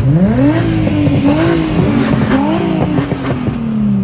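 Car engines revving hard, several at once, their pitches climbing and falling repeatedly and overlapping.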